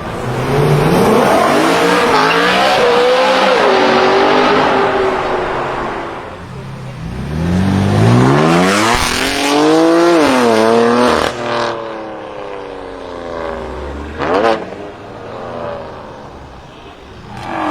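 BMW performance car engines revving hard and accelerating past, the engine note climbing steeply through the revs and then falling away, several times over, with a short sharp rev blip about two-thirds of the way through.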